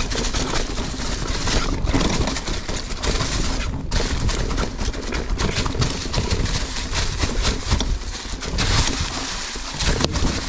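Mountain bike rolling down a leaf-covered dirt trail: steady rushing tyre and riding noise with frequent clatter and knocks as the bike rattles over roots and rocks.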